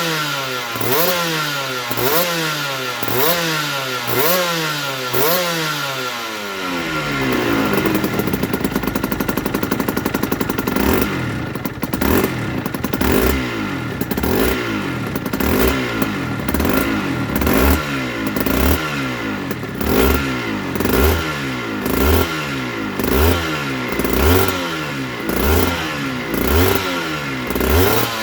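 Aprilia RS125's single-cylinder two-stroke engine being revved in repeated throttle blips, about one a second, each rising and then falling back. Around the middle the revs are held high for a few seconds before the blipping resumes.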